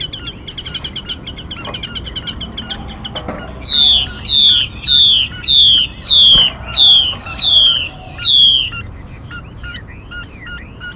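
Lure recording of a female mi bird calling: a fast run of short, rapid chirps, then eight loud calls that each sweep down in pitch, about one every 0.6 seconds, followed by softer scattered chirps.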